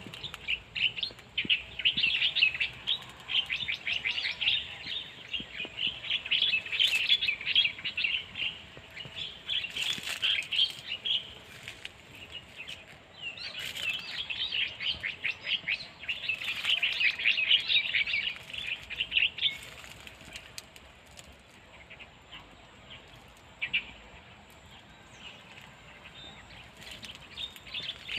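Birds chirping in rapid chattering runs that last several seconds each and come and go, quieter for a while near the end.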